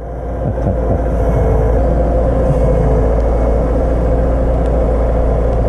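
Front-end loader's engine running hard while working snow. It builds over the first second, then holds steady and loud.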